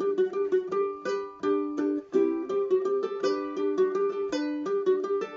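Ukulele playing a melody, individual notes plucked in quick succession, several a second.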